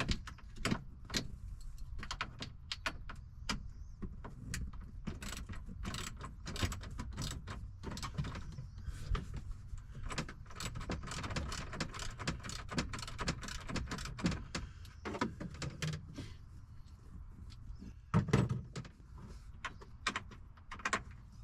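Hand tools and small fasteners clicking and rattling in quick, irregular taps as screws and bolts are worked out of a panel, with one louder bump near the end.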